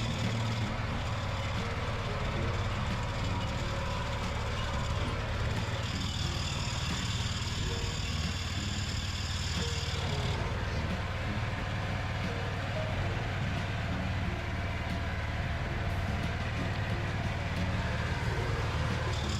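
Tractor engine running steadily and loud, a constant low hum with no change in speed.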